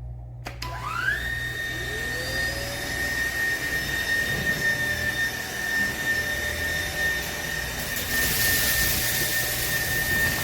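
SMOTURE cordless stick vacuum starting up: its motor whine rises quickly in pitch in the first second, then runs at a steady high pitch over a rush of air. The high airflow hiss gets louder near the end.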